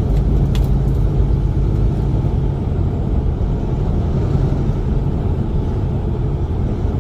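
Semi truck engine and road noise while driving at highway speed: a steady low drone with no change in speed.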